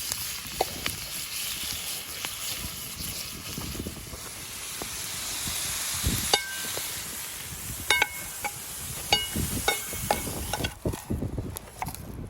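Chopped vegetables sizzling in hot rendered fat in a frying pan, a steady hiss that dies down near the end. Over it come scattered clicks and several short ringing clinks of a utensil against the metal pan as the vegetables are stirred.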